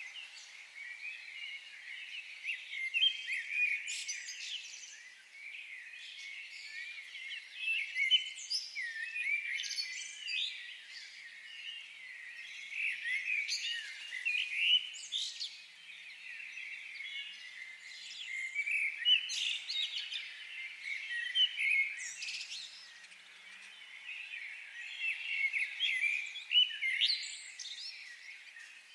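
Several birds singing and chirping together in a forest chorus, with busy overlapping high chirps and trills and louder song phrases every few seconds.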